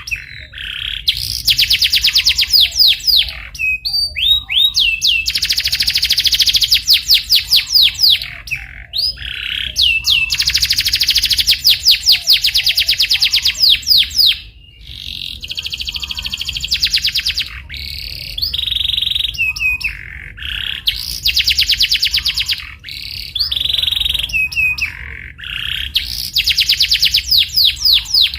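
Domestic canary singing: long, very rapid rolling trills, each a second or two long, alternating with short chirps and sliding whistled notes in brief gaps between the rolls.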